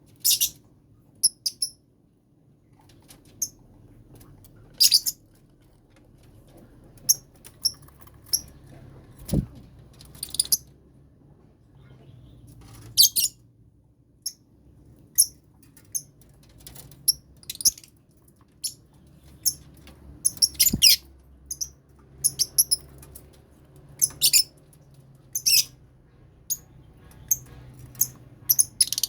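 Lovebirds in a colony cage chirping: short, shrill calls repeated at irregular intervals. Two dull thumps come about nine and twenty-one seconds in.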